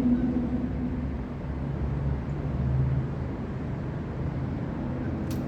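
Low, steady engine hum with a faint wash of noise, its pitch shifting slightly about a second and a half in; a single sharp click near the end.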